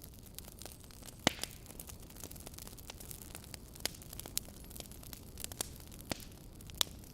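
Wood fire burning in a fireplace: a steady low hiss with irregular sharp crackles and pops, the loudest about a second in and near the end.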